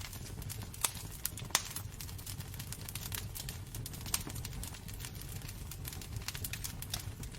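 Wood fire burning in a fireplace: irregular crackles and sharp pops, two louder ones about a second and a second and a half in, over a low steady rumble of the flames.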